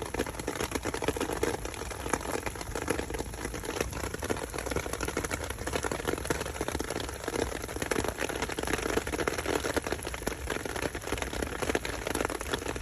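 Heavy rain falling steadily, a dense patter of drops striking the surfaces around.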